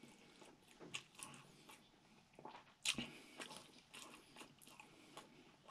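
Faint close-up chewing of a mouthful of food, with soft wet mouth clicks and smacks scattered through and a sharper click about three seconds in.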